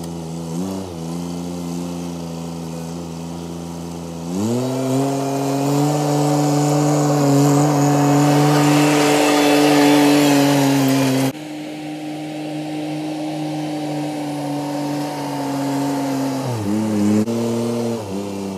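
Vehicle engine running, speeding up about four seconds in and holding at higher revs, dropping back suddenly about eleven seconds in, then slowing briefly near the end.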